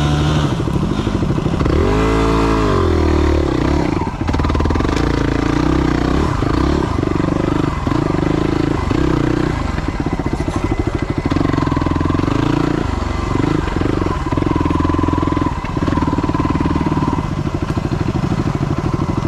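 Yamaha WR250 dirt bike's single-cylinder four-stroke engine running while being ridden, its pitch rising and falling with the throttle, with a quick rev up and down about two seconds in.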